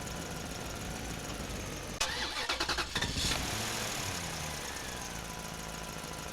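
An engine starting. About two seconds in comes a loud rapid rattling crank of about a second, then a tone that falls in pitch as it settles, over a steady hum.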